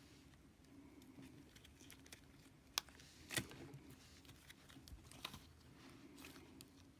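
Faint, scattered clicks and light crinkles of slime and its plastic container being handled, with a few sharper clicks about three seconds in and again past five seconds.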